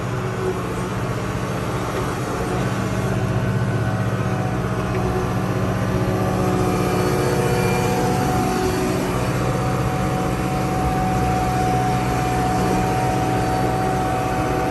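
Kubota L6060 tractor's diesel engine running steadily, picking up a little about two to three seconds in, with a steady high whine over the engine hum.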